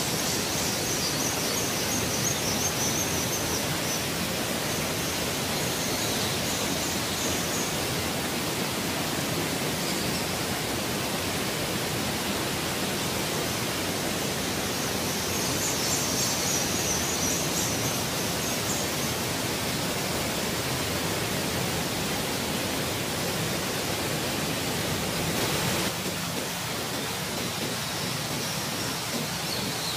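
Waterfall pouring into a rock pool inside an enclosed sandstone sinkhole, a steady full rush of water. Several times it is joined by bursts of high chattering calls from biscutate swifts roosting in the cave.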